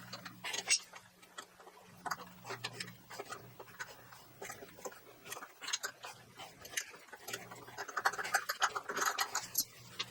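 Irregular light clicks and taps, bunched about half a second in and again near the end, like small parts and tools being handled.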